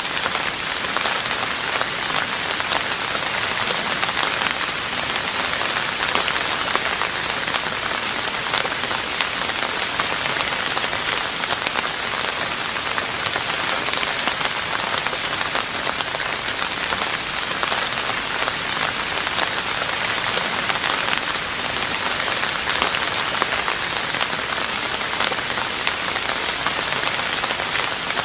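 Steady rain falling on a roof, a dense even hiss of many small drop impacts with no let-up.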